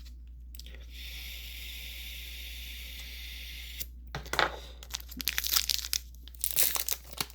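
A steady hiss for a few seconds, then the foil wrapper of a Pokémon booster pack crinkling and tearing open in quick crackles.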